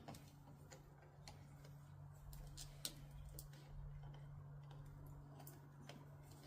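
Near silence with a low steady hum and faint, irregular clicks of small metal hardware being handled while battery cables are hooked up.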